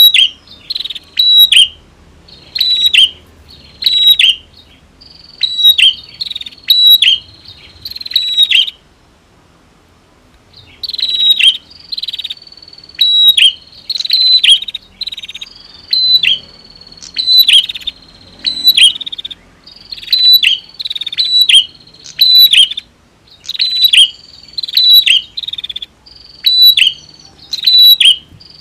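Bar-winged prinias (prenjak), male and female, calling: a fast string of loud, sharp chirps, about two a second, breaking off briefly about nine seconds in and then resuming.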